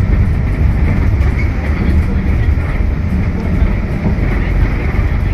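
Scania K320UB hybrid bus on the move, heard from inside: a steady, loud rumble of drivetrain and road noise.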